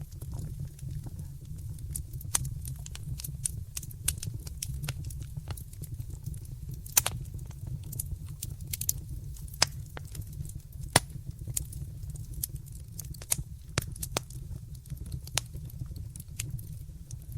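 Wood fire burning in a fireplace: a steady low rumble of flames with irregular crackles and pops, a few sharper snaps standing out about 7 and 11 seconds in.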